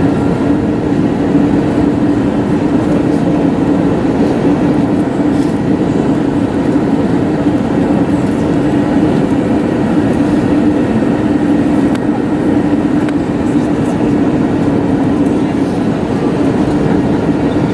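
Steady cabin noise inside an Airbus A321neo: a constant low engine hum over an even rumble, with no change in level.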